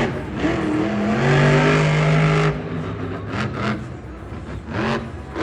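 Monster truck engine revving: the pitch climbs and holds high and loud, then drops off abruptly about two and a half seconds in, followed by a few shorter blips of the throttle.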